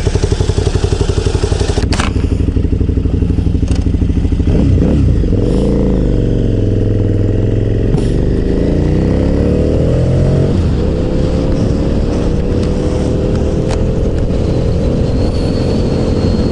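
KTM 990 Super Duke's V-twin engine under way: pulsing at low revs, then rising in pitch as the bike accelerates, with a gear change about ten seconds in, after which the revs climb slowly again.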